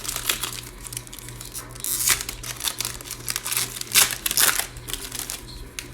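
Plastic wrapper of a trading card pack being torn open and crinkled in the hands, in a run of irregular crackles, loudest about two and four seconds in.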